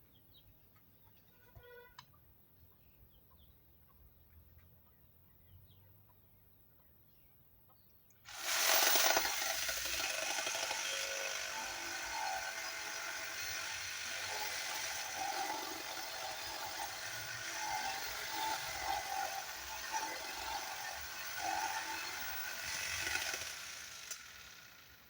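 A reciprocating saw (Sawzall) cutting through a timber beam. It starts suddenly about eight seconds in, runs loud for about sixteen seconds with a wavering pitch, and stops shortly before the end.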